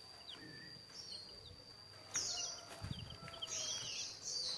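Small birds chirping: short, high calls that slide downward, a few scattered at first and busier from about two seconds in. A thin steady high tone runs underneath.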